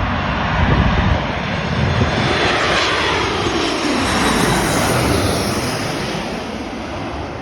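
Jet airliner passing low on its landing approach: loud engine rush with a sweeping whine, fading over the last couple of seconds.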